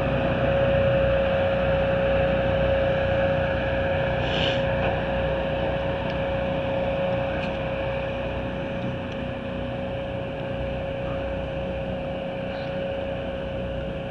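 An engine running steadily, with a constant whine over it, slowly growing fainter.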